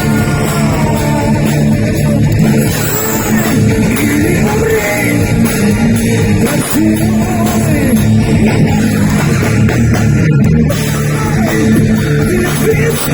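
Live heavy metal band playing a loud, continuous passage, with electric guitar over the bass and drums.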